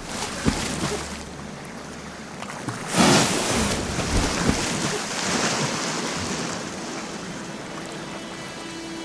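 Sea water splashing and washing, with one loud splash about three seconds in and a few smaller splashes around it.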